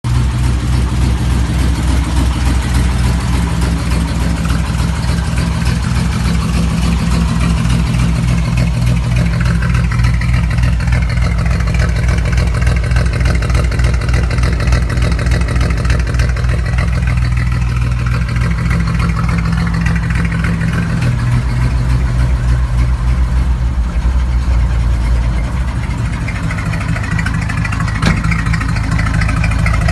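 International Harvester L110's engine idling steadily through a new 2.5-inch exhaust pipe, with a slight change in pitch and a small drop in level a little past two-thirds of the way through.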